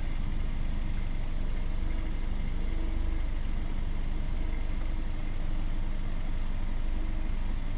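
Sailing catamaran's engine running steadily as the boat motors in to its berth: an even, unchanging drone.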